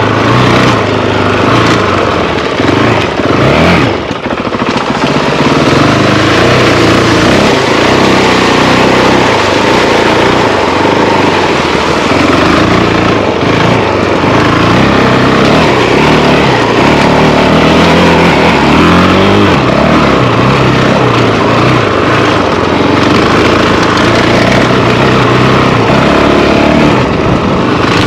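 Honda CRF450L's single-cylinder four-stroke engine running under way on a dirt trail, its pitch rising and falling with the throttle, over a steady rush of noise, with a brief drop in level about four seconds in.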